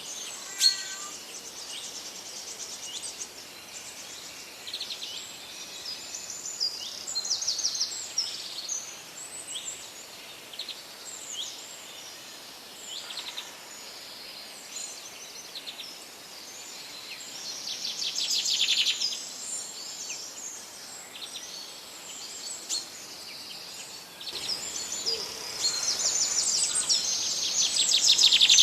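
Several songbirds singing and calling at once, overlapping chirps and quick trills, over a steady background hiss. The chorus grows busier and louder near the end.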